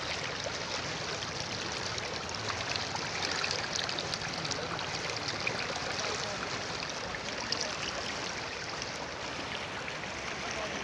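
River water flowing and splashing over rocks in a steady rush.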